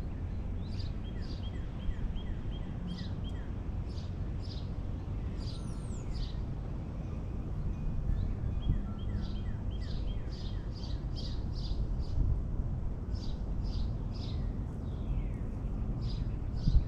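Small wild birds chirping and calling, with many short high chirps and several runs of quick, evenly spaced notes, over a steady low rumble of background noise.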